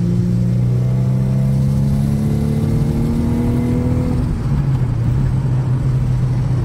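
Infiniti G sedan's VQ-series V6 engine and exhaust pulling under acceleration, the note climbing slowly in pitch for about four seconds. About four and a half seconds in, the pitch drops to a lower, steady drone.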